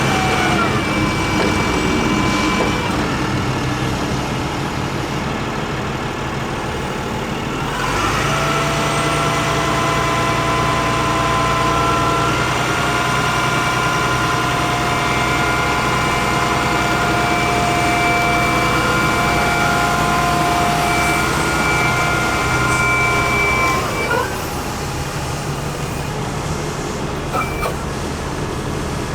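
A digger truck's International DT466 diesel engine running with a steady whine. Its speed drops just after the start, rises about 8 seconds in, holds steady, then falls back to a lower speed about 24 seconds in.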